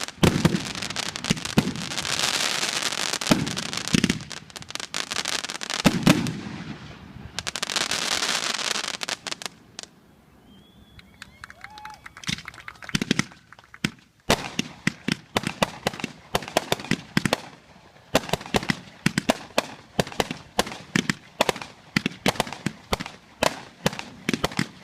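Consumer fireworks going off. For the first ten seconds there are bursts followed by loud crackling fizz. After a short lull, from about fourteen seconds on, comes a rapid string of sharp pops, several a second.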